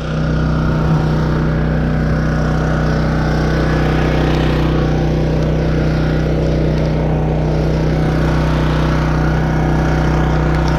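Small engine of a 12-ton engine-powered log splitter running steadily at a constant speed.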